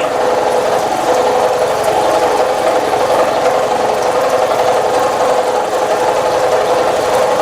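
Milling machine taking a heavy cut in metal under flood coolant: a steady, even machining sound with a fast, fine rhythm that holds unchanged throughout.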